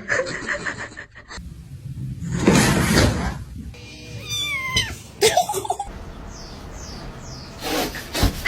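A cat meowing, with short gliding calls, in a string of short clips cut together, each with its own sounds.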